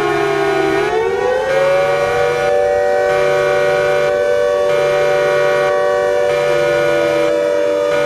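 Mock emergency-alert alarm made of siren sounds: several siren tones glide up together about a second in, hold steady, and begin to fall near the end. Underneath, a low tone pulses on and off about once every second and a half.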